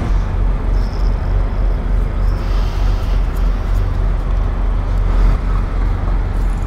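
A refrigerated trailer's reefer unit running, a loud steady low drone.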